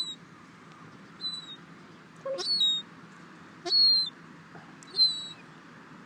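A gull calling close by: four short, thin, high-pitched cries, each falling slightly in pitch, spaced a little over a second apart.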